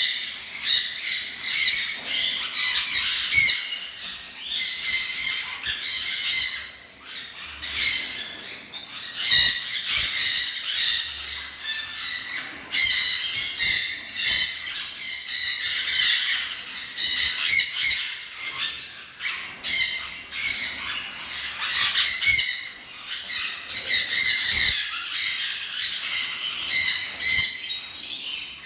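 A crowd of small caged birds chattering and squawking, many short high calls overlapping one another.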